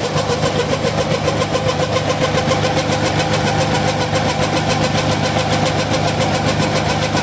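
Combine harvester running steadily, with a rapid, even pulsing beat and a steady whine: an abnormal noise, which the owner links to the machine clogging easily.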